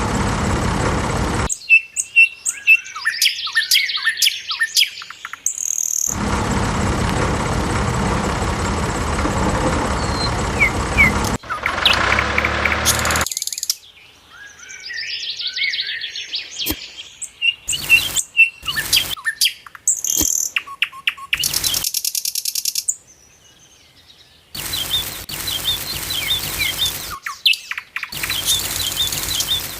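Small birds chirping in short repeated calls, broken by abrupt cuts to several-second stretches of a steady, even noise.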